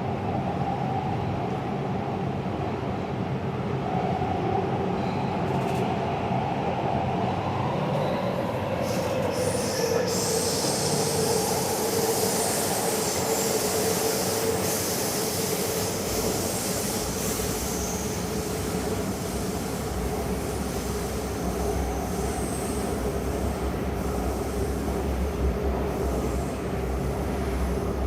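Taipei Metro train running on the Zhonghe–Xinlu line: a steady rumble with a whine that drops in pitch about nine seconds in. A high hiss joins for several seconds around then, and the low rumble deepens in the second half.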